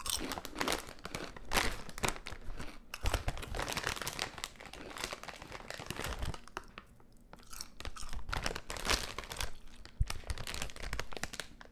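Close-up chewing of crunchy potato chips: a dense run of crisp crunches, with a brief lull a little past halfway.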